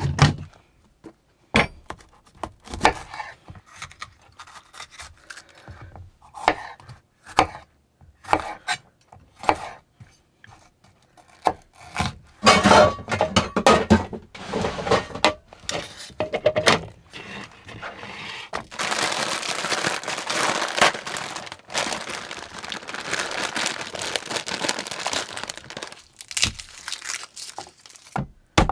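Kitchen prep in a small cabin: scattered knocks and clatter of cookware and food being set out, with crinkling and tearing of packaging. There is a steadier rustling stretch in the second half.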